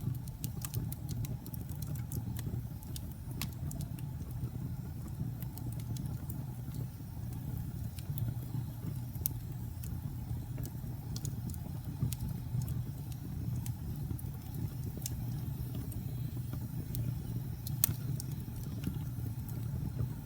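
Wood fire burning in a fireplace: a steady low rumble of flames with irregular crackles and sharper pops scattered throughout, one of the loudest pops near the end.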